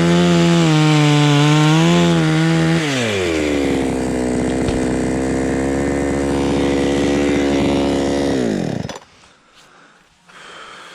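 Chainsaw engine held at high revs, its pitch wavering slightly. It drops to idle about three seconds in, idles steadily, then shuts off abruptly near the end.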